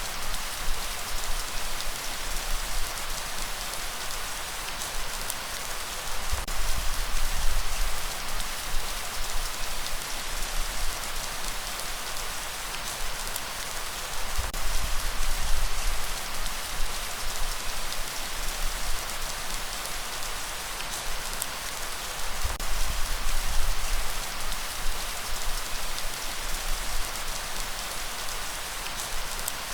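Steady rainfall, a dense hiss of drops, with a low rumble underneath; the whole swells and eases every few seconds.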